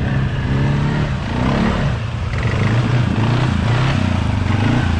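Mega truck engine revving up and down, its pitch rising and falling several times.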